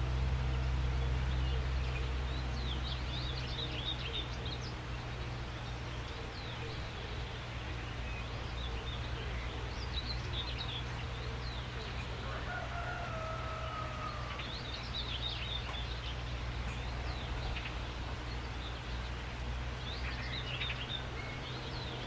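Wild birds chirping in scattered clusters of quick high notes, with one longer call held at a steady pitch about halfway through. A steady low rumble runs underneath.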